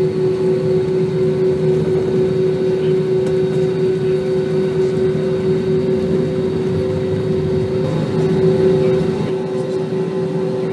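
Steady drone of an Airbus A320 heard inside the passenger cabin: engine and airflow noise holding a constant hum with no change in pitch.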